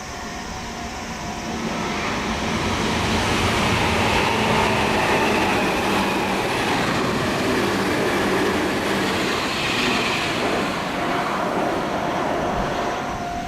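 A Meitetsu Nagoya Main Line electric train passing through the station at speed without stopping: the rumble and rail noise build over the first few seconds, stay loud through the middle and ease off near the end.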